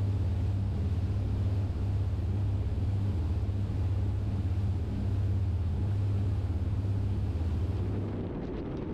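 A motor yacht's twin inboard diesel engines running steadily at cruising speed, around 1,800–2,000 RPM and near 20 knots: a deep, even drone with a faint haze of wind and water noise over it. The drone weakens near the end.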